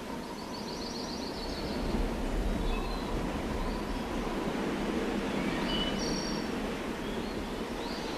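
Outdoor ambience: a steady rushing noise with a few short, high bird chirps, a string of them near the start and another about six seconds in.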